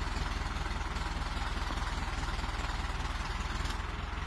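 Tractor engine running steadily with an even low throb.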